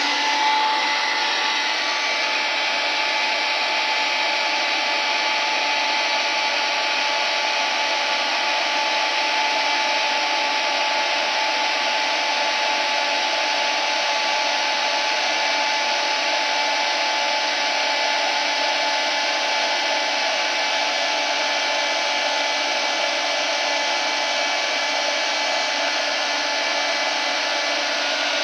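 Hair dryer running steadily: an even rush of fan and blown air with a steady whine on top.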